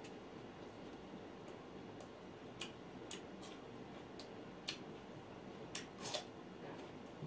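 A person eating grilled mutton sekuwa by hand: scattered faint mouth clicks and smacks of chewing, with a louder little cluster about six seconds in as more food goes into the mouth, over a steady low hiss.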